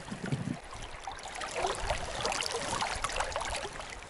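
Shallow river running over rocks, a steady babbling and trickling of water.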